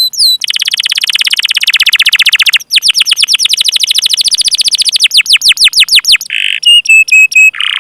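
Domestic canary singing a rolling song: a very fast trill of down-slurred whistled notes, a short break, then a slower run of the same notes. Near the end come a buzzy note, a few short level whistles and another buzzy note.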